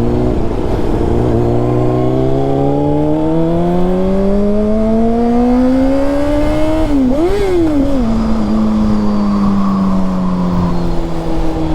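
2006 Honda CBR600RR inline-four sport bike engine through a Yoshimura exhaust, pulling under throttle with its pitch rising steadily for about seven seconds. It then dips sharply and blips back up, and winds down slowly through the rest.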